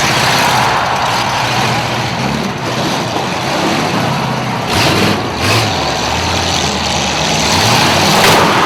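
Large motor home engines running and revving during a demolition derby, with short louder bursts of noise about five seconds in and near the end.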